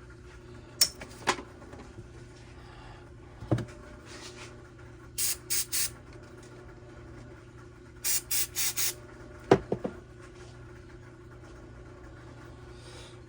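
Short hissing bursts from an aerosol spray can, three in quick succession and then four more a few seconds later. Between them come sharp clicks and taps of small parts being handled, over a steady low hum.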